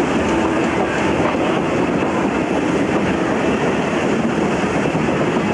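A train passing, with a steady, loud running noise.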